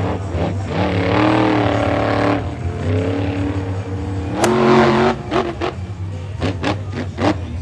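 Monster truck engines revving loudly, pitch climbing and falling, with a sharp crack about four and a half seconds in.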